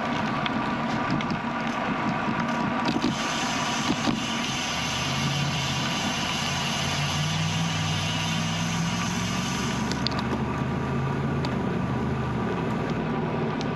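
Steady wind and tyre noise from a bicycle ride on a road. A motor vehicle passes through the middle, its tyre hiss and low engine note rising for several seconds and then fading.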